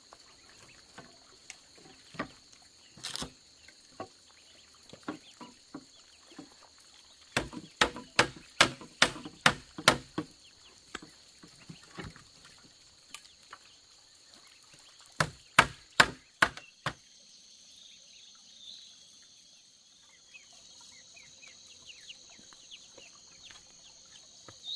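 Sharp chopping blows on wood: a fast run of about eight strikes, roughly three a second, then after a pause a second run of about five, with lighter knocks scattered between.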